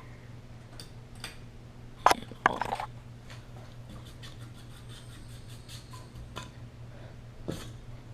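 1987 Sears spinner ceiling fan running on its low speed with a steady low motor hum, broken by a few sharp clicks, the loudest about two to three seconds in.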